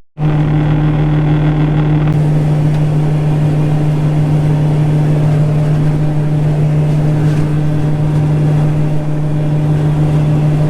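John Deere 9500 combine running under harvest load, a loud steady machine drone with a strong hum. There is a brief dropout right at the start, and a deeper rumble drops away about two seconds in.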